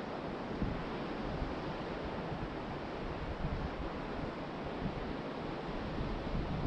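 Ocean surf washing onto the beach in a steady rush, with wind buffeting the microphone in irregular low gusts.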